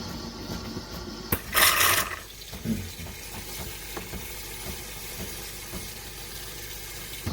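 De'Longhi Dinamica Plus automatic espresso machine making an espresso: a click and a short loud hiss about one and a half seconds in, then liquid running with small crackles over a low hum.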